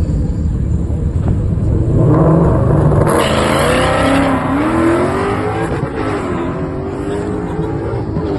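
V8 engines of a drag race between a Ford SVT Lightning pickup and a Cadillac CTS-V. The cars launch hard about two seconds in, then the engine note climbs in pitch again and again as they accelerate down the strip through the gears.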